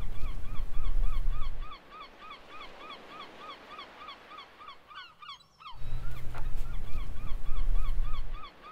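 A bird calling over and over, about four short, clipped calls a second, with a brief break about five seconds in. A deep low rumble comes in at the start and again in the second half and is louder than the calls.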